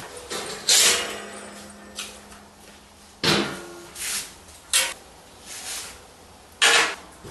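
A series of separate knocks and clanks from 3 mm steel plate parts being handled, about six in all. The loudest comes about a second in and leaves a short ringing tone.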